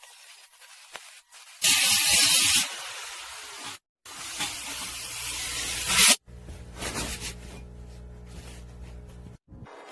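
Electric arc welding on the steel gas cylinder: harsh hissing and crackling from the arc in several short runs, the loudest about two seconds in, with the welder's steady hum under the later run.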